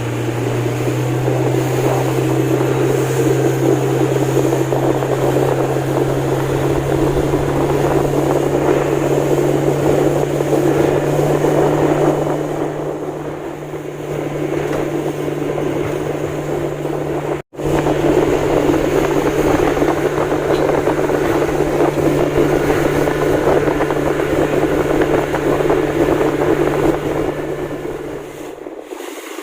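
Fishing boat's engine running steadily underway, a constant low hum under a rushing noise of wind and water. There is a brief dropout about two-thirds through, and the hum stops near the end.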